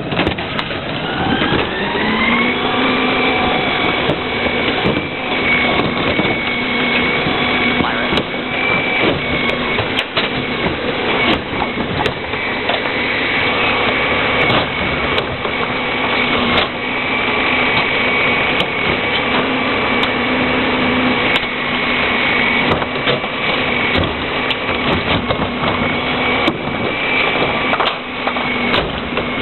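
Rear-loader garbage truck with a Heil 5000 body working its packer: the engine speeds up over the first couple of seconds and then holds high with a steady whine, with repeated knocks and bangs throughout.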